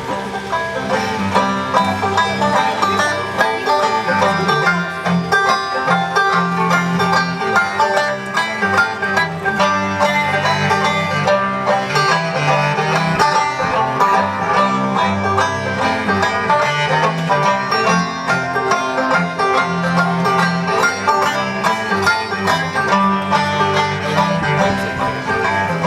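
Instrumental break of a live bluegrass-style string band, with banjo picking over a steady bass accompaniment.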